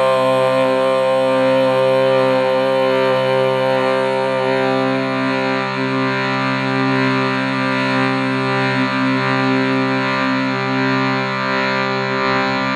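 Steady musical drone: many held tones sounding together without a break, an unchanging background drone.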